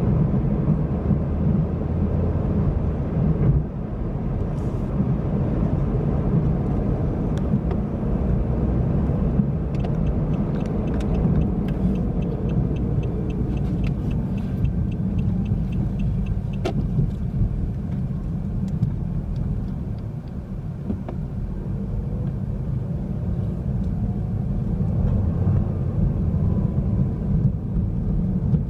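Steady low rumble of a car in motion, heard inside the cabin of a 2021 Nissan Versa. Partway through there is a run of quick, evenly spaced ticks.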